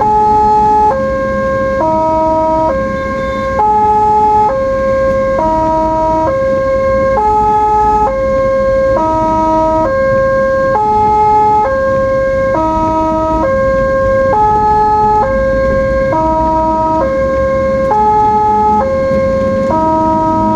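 Ambulance's electronic siren, stepping back and forth between pitches about once a second in a repeating cycle, over the low rumble of the vehicle on the road.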